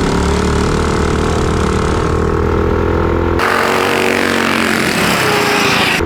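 Several small single-cylinder minibike engines running flat out at steady high revs. About halfway through the sound changes abruptly to a thinner, hissier mix with the engine notes fainter, then returns near the end.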